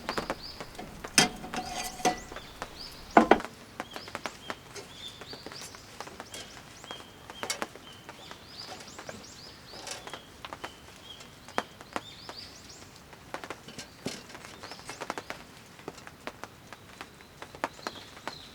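Irregular taps and knocks, a few louder ones in the first few seconds, with a bird chirping repeatedly throughout.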